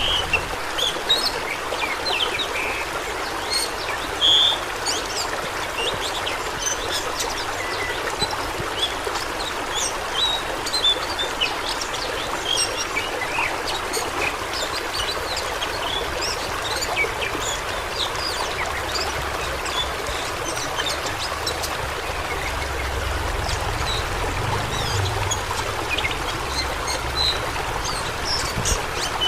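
Fast-flowing water rushing steadily, with many small splashes and gurgles scattered through it.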